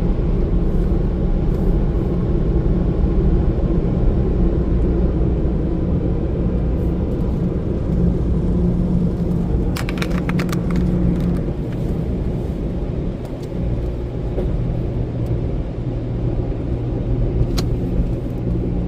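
Express car wash tunnel equipment running, heard from inside the car's cabin as a steady low rumble and hum, with a few brief clicks about ten seconds in and one near the end.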